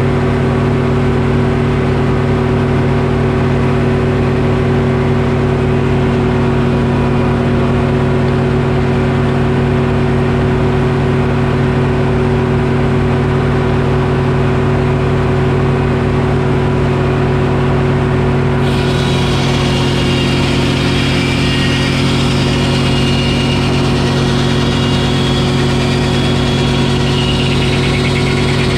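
Detroit Diesel engine running steadily to power a Frick sawmill. About two-thirds of the way through, a higher whine and hiss joins it as the saw goes into the oak log.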